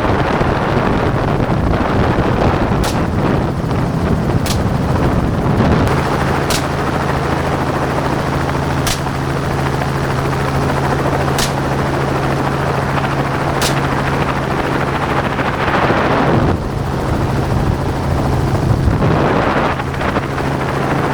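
Helicopter running steadily in flight, its rotor and engine filling the sound, with a steady low hum settling in about six seconds in. Six faint sharp cracks come about every two seconds during the first two-thirds.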